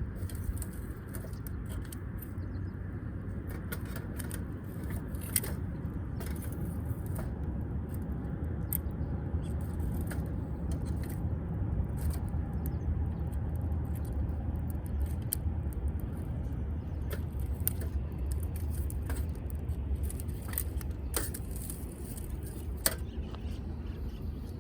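Wood fire crackling in a Uniflame firewood grill: irregular sharp pops and snaps over a steady low rumble.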